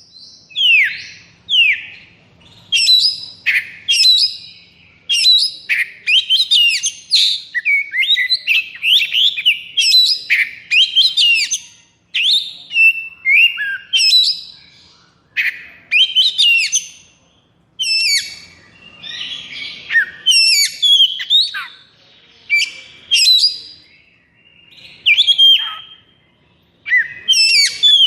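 Oriental magpie-robin (kacer) singing a fast, varied song of sweet whistles and rapid chattering phrases in quick succession, with only short gaps between them and a harsher, scratchy passage around two-thirds of the way through. This is the non-stop 'konslet' style that keepers prize.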